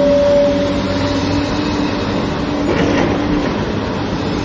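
Excavator engine running at a steady drone, with a constant low hum. A brief higher-pitched sound cuts in about three seconds in.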